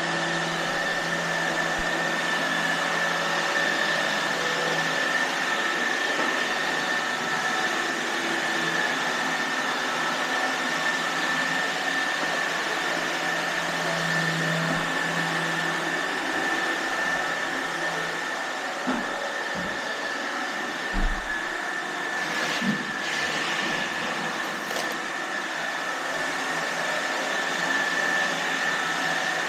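iRobot Roomba robot vacuums running: a steady whirring hiss with a high whine, and a few short knocks about two-thirds of the way through.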